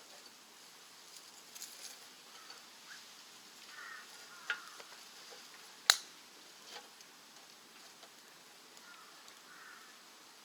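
Wood fire burning in a rocket stove, crackling with scattered small pops and snaps and one sharp, loud crack about six seconds in.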